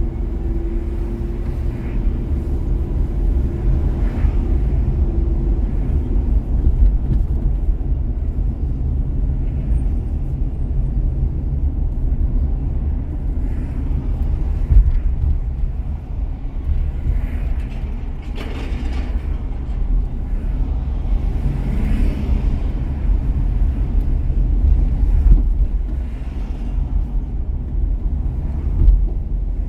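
Car driving on city streets: steady low road and engine rumble, with a faint hum in the first few seconds and a few passing swishes of other traffic, the clearest about two-thirds of the way in.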